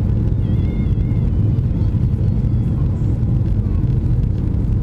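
Steady low rumble of cabin noise inside a Boeing 737-800 with its CFM56 engines running.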